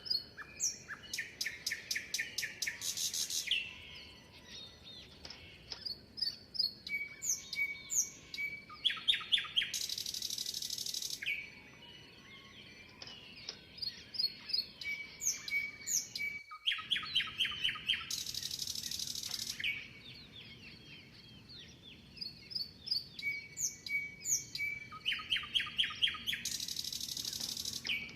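Songbirds chirping. A phrase of quick descending chirps runs into a fast, buzzy trill, and the phrase comes back about every eight seconds.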